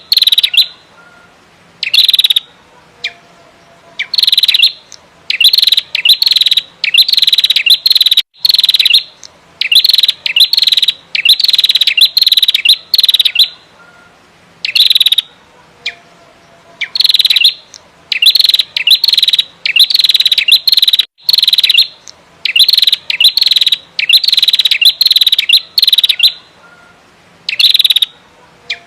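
Female prenjak merah, a small Indonesian songbird, calling energetically: loud, rapid bursts of harsh chattering calls, coming in runs of two or three with short pauses between.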